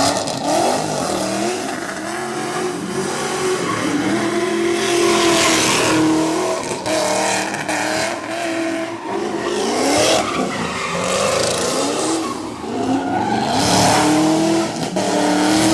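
A car engine held at high revs, its pitch wavering up and down, while the tyres spin and squeal in a burnout.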